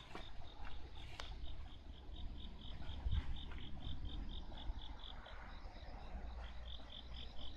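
An insect chirping in a steady, even pulse of about five high chirps a second, over a low rumble, with a couple of brief clicks near the start.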